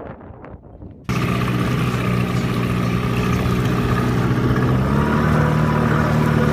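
A boat engine running steadily, cutting in suddenly about a second in after faint wind noise. Its pitch shifts slightly about halfway through.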